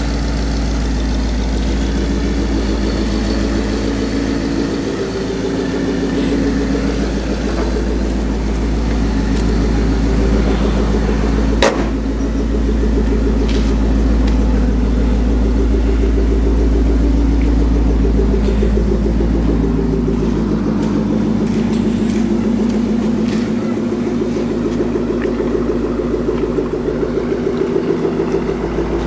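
Supercharged Ford Mustang GT 5.0 V8 idling steadily, with one sharp click about twelve seconds in.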